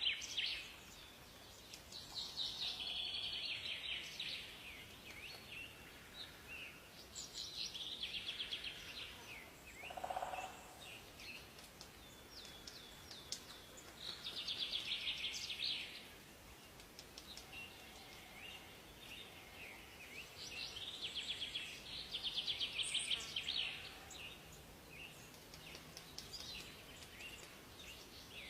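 Songbirds singing in a forest: repeated trilled phrases of rapid notes, each lasting a second or two and coming every few seconds, with a brief lower call about ten seconds in, over a faint steady background hiss.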